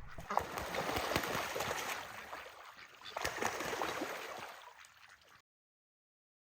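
Running, splashing water with scattered small knocks, fading away and cutting to silence about five seconds in.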